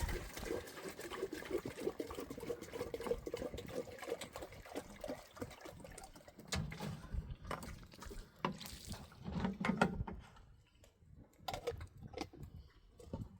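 Liquid being poured or sloshing for several seconds, followed by scattered knocks and clatter.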